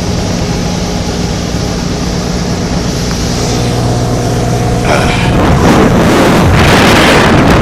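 Motorboat engine running steadily underway; about five seconds in a louder rush of wind on the microphone and water noise builds up and swamps the engine.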